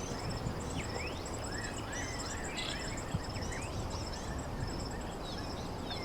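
Outdoor ambience: several birds chirping and calling, with high, rapidly repeated trills, over a steady background noise.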